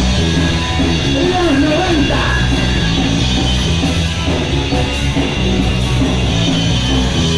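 Punk rock band playing a song live, loud and steady.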